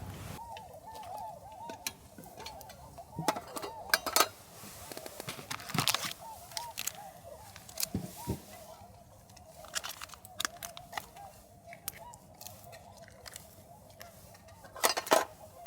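A large flock of swans calling continually, many short honking calls overlapping. Scattered sharp clicks and knocks sound close by, the loudest about four seconds in and near the end.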